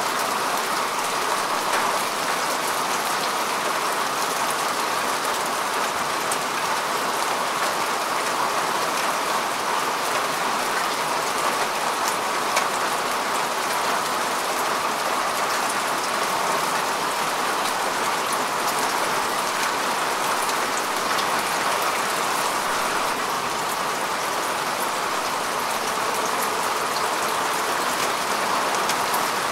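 Steady rain falling on grass and soil, an even hiss with scattered individual drop ticks.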